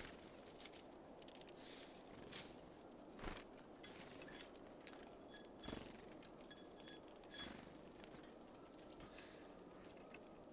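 Faint, irregular taps and knocks of small birds landing and pecking at a seed feeder, with short, thin, high bird calls.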